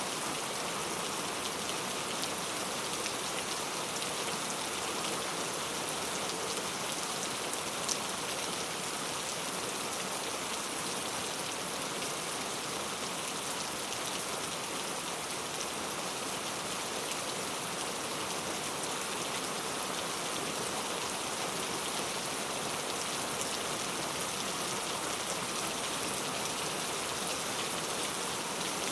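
Heavy rain falling steadily on hard surfaces: a dense, even hiss of drops with many fine patters and no letup.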